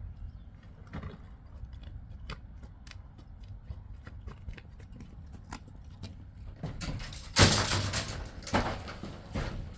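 A kayak and its gear being handled while it is loaded onto a truck: scattered light knocks and clicks, then a loud scraping rush lasting about two seconds near the end.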